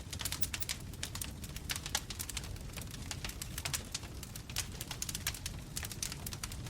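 Bonfire crackling: a dense, irregular run of sharp pops and snaps from burning wood over a steady low rumble of the flames.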